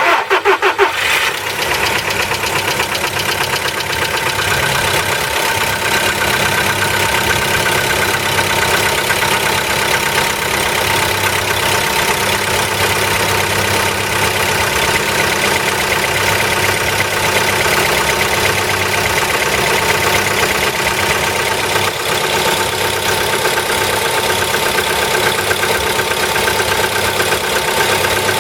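Volkswagen-group CFN engine idling with a fast, even knocking running through it: the engine knock the video sets out to record. The sound is louder and rougher for about the first second, then settles.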